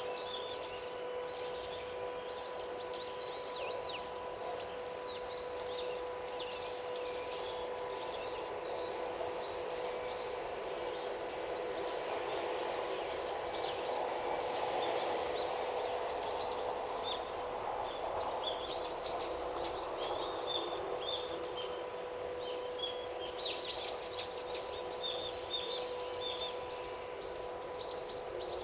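Small birds chirping in short, high, quick notes, growing busier in two flurries, one about two-thirds of the way in and another near the end. A steady low hum and a faint background noise run underneath.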